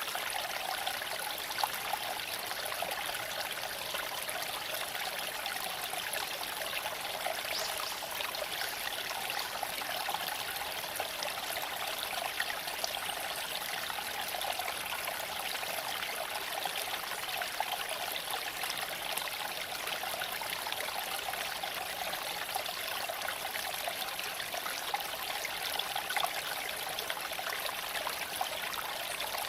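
Steady rushing noise of a Tesla Cybertruck on the move: tyre and wind noise, even and unbroken, with a few faint clicks.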